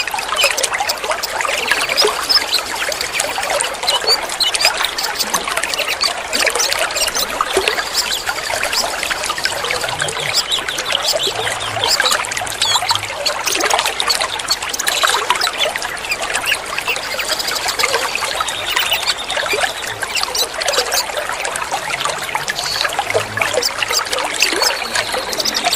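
Water trickling and splashing steadily, with short bird whistles and chirps over it here and there.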